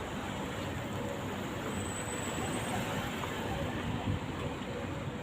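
Steady road traffic noise, an even rumble and hiss of passing vehicles with no single event standing out.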